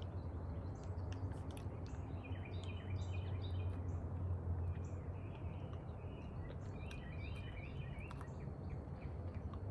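Birds chirping in two spells of quick, high chirps, about two seconds in and again about seven seconds in, over a steady low background hum.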